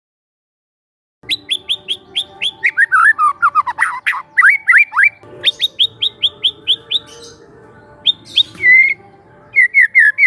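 Young white-rumped shama singing: after about a second of silence, fast runs of sharp, down-slurred whistled notes, with a falling series in the middle and short pauses between phrases.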